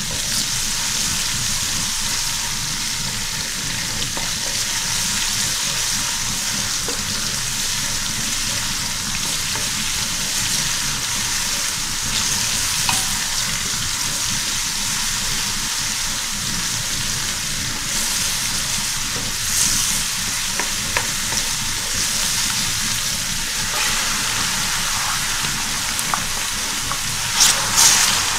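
Garlic paste sizzling in hot oil in an aluminium pot while a wooden spatula stirs it. Near the end the sizzle briefly gets louder as sliced red onions go into the oil.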